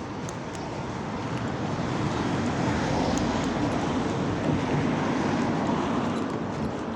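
A road vehicle passing by, its engine and tyre noise building up to a peak midway and then fading away.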